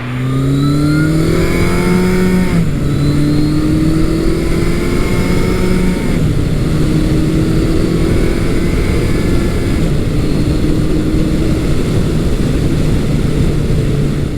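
Big-bore motorcycle engine accelerating hard through the gears. Its pitch climbs, drops at upshifts about two and a half and six seconds in, then rises slowly and levels off.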